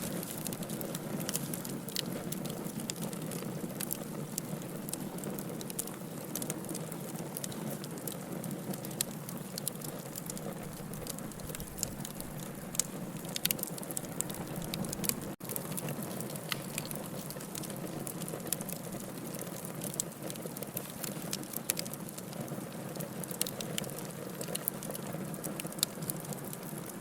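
Wood campfire burning, a steady low rush of flames with frequent sharp crackles and pops. The sound drops out for an instant about halfway.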